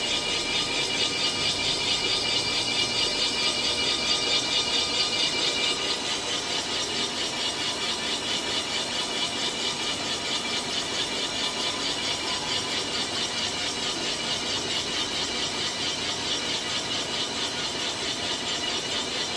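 Cylinder boring machine cutting the bores of a Maruti Gypsy engine block: a steady machine run with a fast regular pulsing and a high squeal from the cutter, easing slightly about six seconds in.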